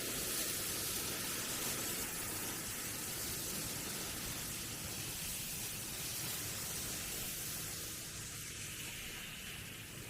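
Hot-spring waterfall splashing down as a steady hiss of falling water, easing off slightly near the end.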